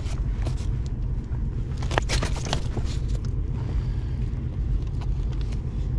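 Scattered short scrapes and clicks of a caught bass and gear being handled in a small inflatable boat, most of them about two seconds in, over a steady low rumble.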